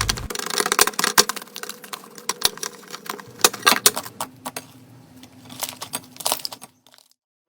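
Slime being squished and worked by hand, giving a dense run of sharp crackles and clicks that thin out and stop near the end.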